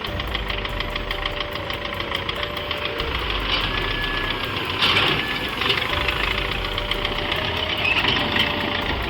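Tractor engine running with a steady knocking beat, with a few brief louder surges partway through.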